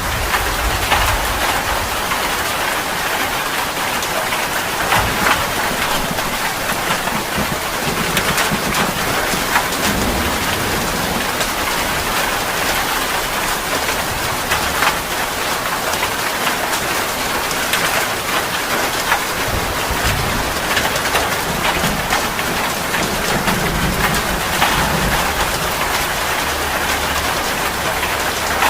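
Heavy rain falling steadily, a dense hiss of drops with many separate drop hits, and a low rumble swelling up now and then.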